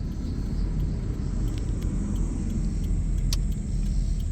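Car road noise heard from inside the cabin while driving: a steady low rumble of tyres and engine, with a single sharp click about three seconds in.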